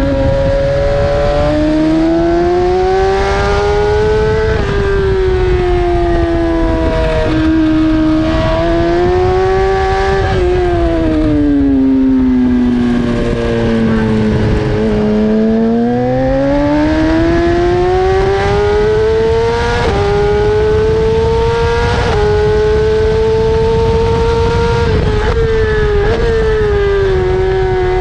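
BMW S1000RR's inline-four engine at race speed, its pitch climbing under acceleration and dropping at gear shifts. For several seconds in the middle it falls steadily as the bike slows, then climbs again. A steady rush of wind noise lies under it.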